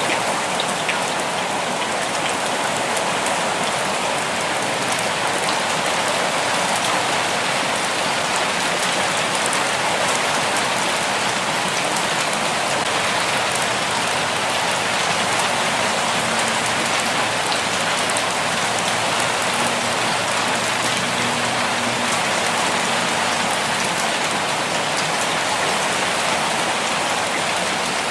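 Steady rainfall: a dense, even hiss of raindrops falling on surfaces, continuous and unchanging.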